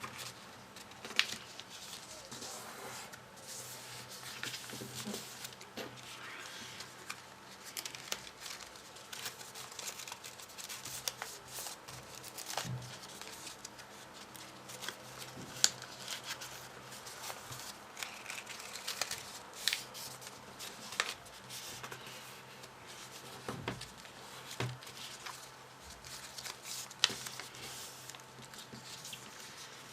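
Folded paper modules handled and pressed together: steady rustling and crinkling of paper with scattered sharp clicks, the loudest about a second in, midway and near the end.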